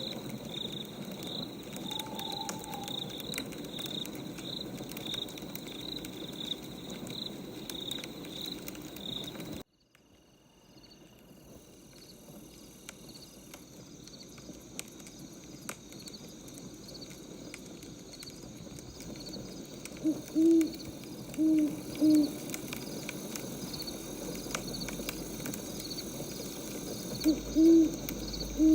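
Night nature ambience: insects chirping in a regular high pulse over faint crackling, like a wood fire. The sound drops out about ten seconds in and fades back up, and an owl hoots in short pairs near the end.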